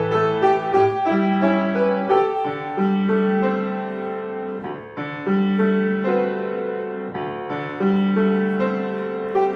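Solo piano playing: a melody over held bass notes and chords, with short pauses between phrases.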